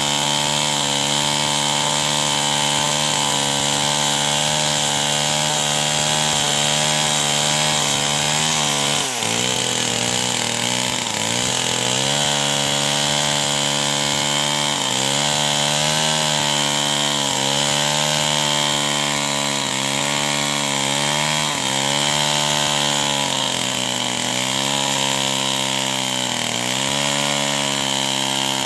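Two-stroke chainsaw held at full throttle while cutting wood, its engine note dropping sharply about nine seconds in, then sagging and recovering over and over every second or so as the chain loads up in the cut.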